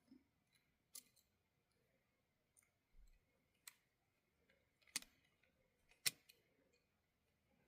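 Faint, scattered clicks and taps of small tools and parts being handled on an HO scale model locomotive, a handful of sharp ticks with the loudest two about five and six seconds in.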